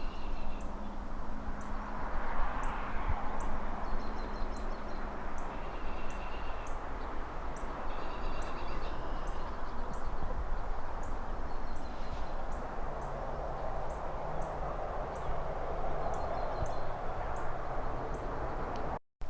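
Layered city ambience: a steady wash of distant traffic and rustling trees that swells twice, with small birds chirping now and then. A faint ticking repeats about twice a second, and the sound drops out briefly just before the end.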